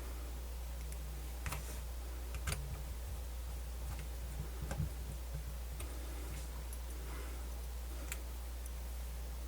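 Small screws being driven back into a Sony MZ-N420D MiniDisc Walkman's casing with a small screwdriver: a handful of light, scattered clicks and ticks over a steady low hum.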